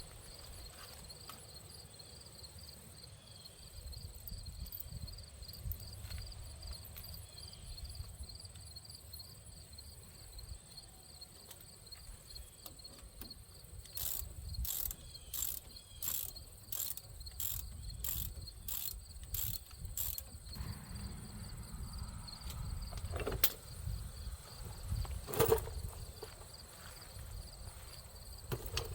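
Insects chirping steadily in the background. Partway through comes a run of about ten sharp, evenly spaced taps, with two single knocks a few seconds later.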